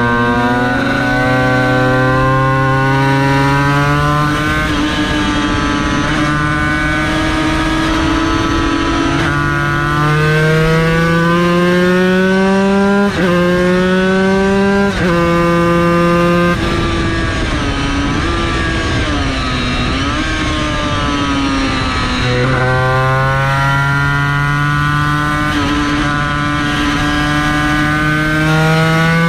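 Yamaha TZ250's two-stroke V-twin racing engine pulling hard, its pitch climbing through the gears with several quick upshifts. Past the middle it drops off to a lower, wavering note through a corner, then climbs hard again near the end.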